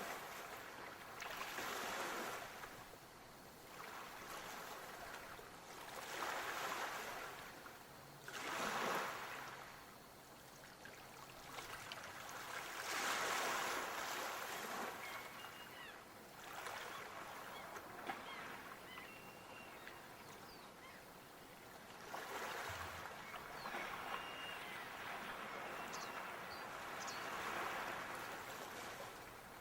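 Waves washing in, a rushing surge that swells and fades every few seconds.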